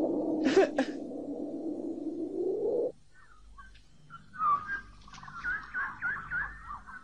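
A steady low droning noise with two sharp clicks just under a second in, cut off suddenly about three seconds in. Then birds chirping in quick repeated calls.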